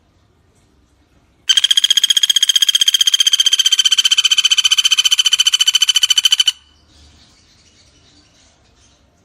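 Pelatuk bawang woodpecker giving one long, loud rattling call: a rapid, even string of about a dozen notes a second at a steady pitch. It starts about a second and a half in and lasts about five seconds.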